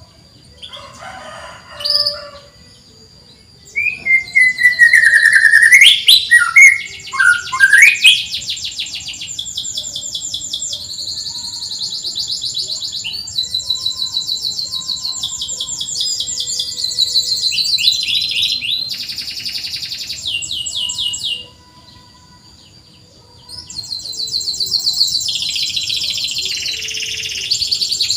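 Domestic canary singing: long, fast runs of high repeated chirps and trills, with loud swooping notes about four to eight seconds in and a short break in the song near the end.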